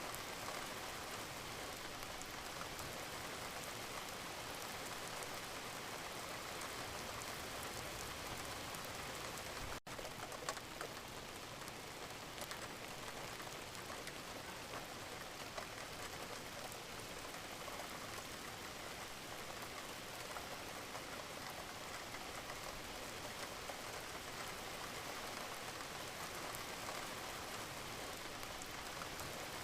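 Wood fire crackling in a fireplace: a steady hiss with scattered small pops and snaps, broken by a brief dropout about ten seconds in.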